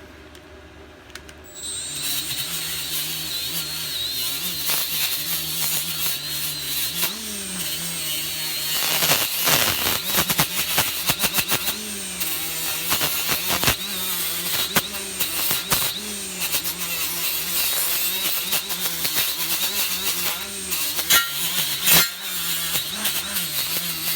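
Handheld electric power tool cleaning the metal surface of a small engine block after the valves are out. It starts about two seconds in. The motor pitch sags and recovers as it is pressed on, with rough scraping and a few sharp knocks near the end.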